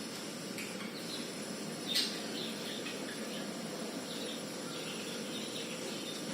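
Small birds chirping in short, scattered calls over a steady background hum, with one sharp click about two seconds in.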